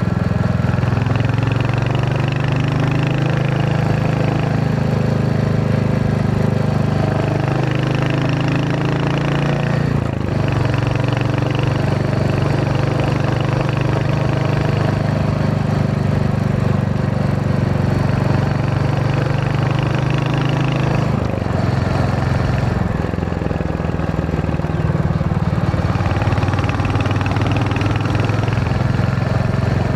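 Royal Enfield Hunter 350's single-cylinder engine and exhaust running steadily while riding, with short breaks and shifts in pitch about ten seconds in and again about twenty-one seconds in.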